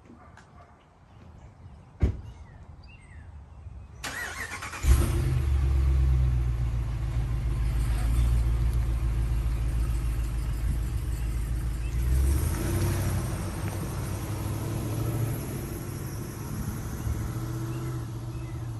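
A single thump about two seconds in, then, about five seconds in, a pickup truck's engine starts and runs steadily.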